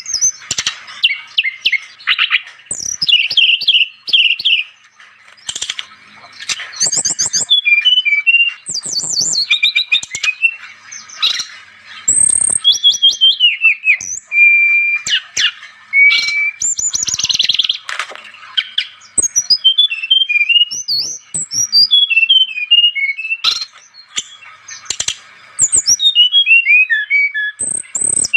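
A sikatan rimba dada coklat (brown-chested jungle flycatcher) singing vigorously: a fast, varied run of chirps, trills and whistled slides, phrase after phrase with only short pauses.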